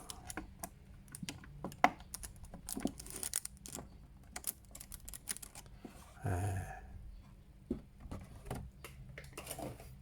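Small plastic action-figure parts and accessories clicking and rattling as they are picked up and handled, with a brief crinkle of plastic packaging about three seconds in.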